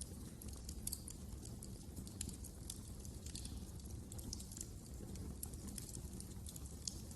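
Fire crackling in a fireplace: irregular sharp pops and snaps, a few a second, over a steady low rumble of the flames.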